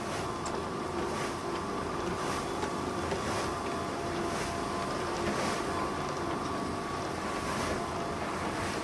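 Soviet-era salt-harvesting machine running steadily as it loads rail carriages with salt: a constant mechanical drone and hiss, with a few faint steady tones and soft swishes recurring about once a second.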